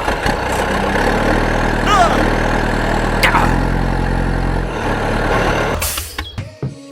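Engine running steadily at a low idle-like hum, with a short falling squeak about two seconds in and a click a little later; the engine sound fades and breaks up near the end.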